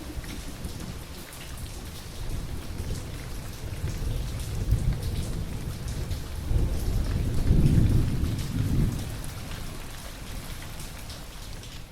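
Steady rain falling with scattered drop patters, under a long rolling thunder rumble that builds over several seconds, peaks past the middle and dies away near the end.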